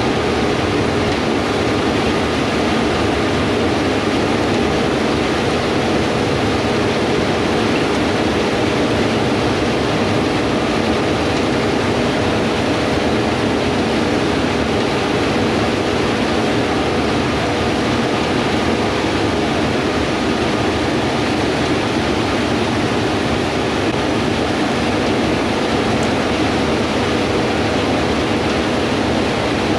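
Gleaner S98 combine harvesters running steadily while harvesting wheat: a continuous machinery drone with a faint steady hum underneath, level and unchanging.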